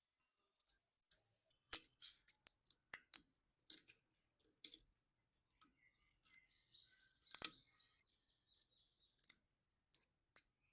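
Irregular sharp clicks and short scrapes of hand work on metal, about a dozen of them spread unevenly. The loudest come about two seconds in and about seven seconds in.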